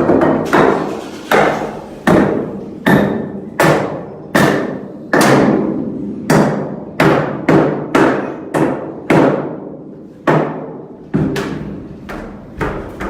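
A series of heavy strikes at an uneven pace, roughly one every half to three-quarters of a second, each ringing on briefly with a low pitch.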